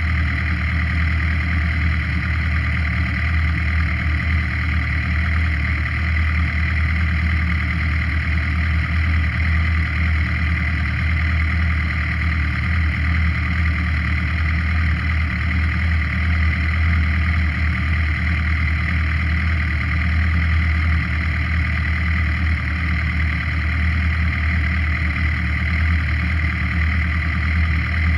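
Suzuki GSX-R motorcycle engine running at a steady speed, heard from a camera mounted on the bike: an even drone with no revving or gear changes.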